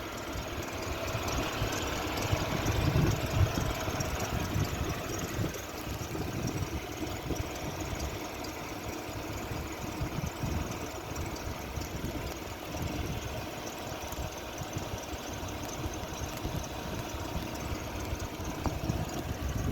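Renault Sandero Stepway engine idling steadily just after a cold winter start, with an extraneous engine noise that goes away once the engine has warmed up.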